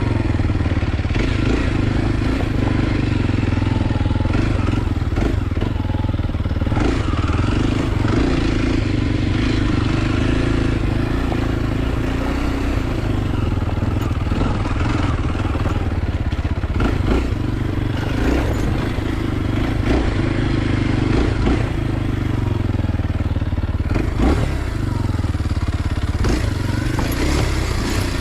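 Kawasaki KLX 230 SM's air-cooled single-cylinder four-stroke engine running at a fairly steady speed, with no big revs up or down.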